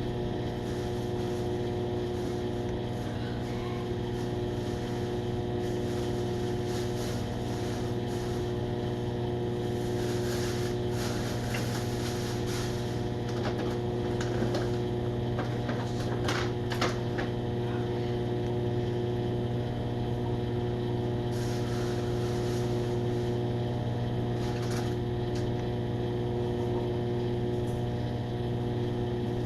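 Microwave oven running with a steady electrical hum, with a few faint clicks and rustles in the middle.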